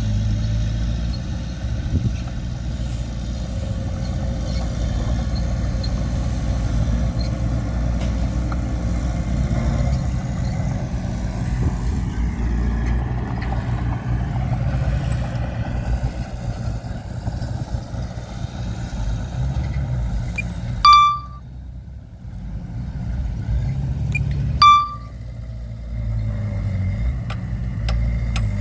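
Heavy earthmoving machinery engines running steadily at a low rumble. Near the end come two short, loud beeps about four seconds apart, and the engine sound dips briefly after each.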